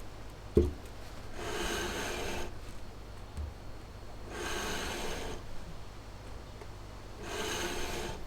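Carburettor base being dragged across P320 reusable sandpaper on a flat surface: three slow rasping strokes about three seconds apart, each lasting about a second, sanding flat a mounting face warped by overtightening. A short thump about half a second in.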